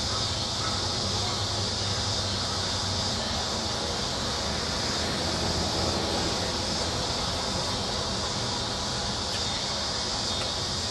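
Steady, unbroken noise with no distinct events: a high hiss over a low rumble.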